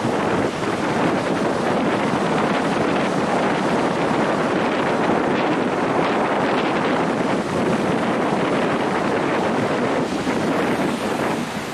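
Wind buffeting the microphone over steady ocean surf, easing a little near the end.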